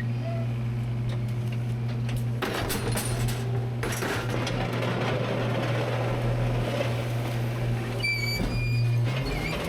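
Rear-load garbage truck's hydraulic packer running with a steady hum. About two and a half seconds in, the trash starts crushing and crackling in the hopper, with scattered sharp cracks, until near the end. Short high metal squeals come near the end.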